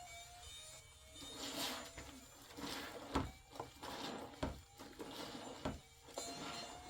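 Repeated hand-worked scraping or rubbing strokes, about one every second, with a few sharp knocks among them, over faint background music.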